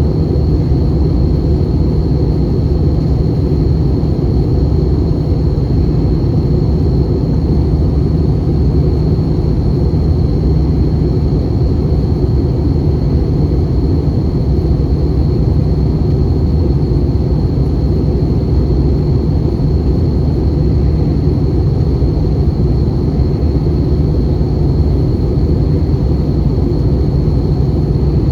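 Steady cabin noise inside an Airbus A320 in flight: an even low rumble of engines and airflow, with a thin steady high whine above it.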